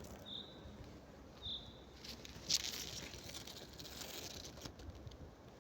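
Short high chirps about a second apart, a small bird calling, then from about two seconds in an irregular patter of rustling and crackling, like dry forest litter being disturbed.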